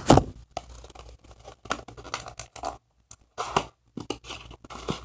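Toy packaging being torn open by hand: irregular tearing and crinkling with short scratchy bursts, the loudest at the very start.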